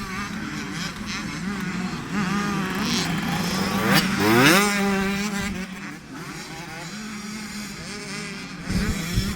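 Several youth motocross bike engines revving, their pitches rising and falling, with one bike accelerating hard close by about four seconds in, its pitch climbing steeply.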